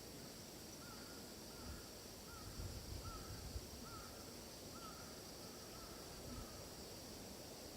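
A bird calls a run of about nine short, thin, evenly spaced notes, a little under two a second, over a steady high-pitched insect drone. A few faint low rumbles come in the middle.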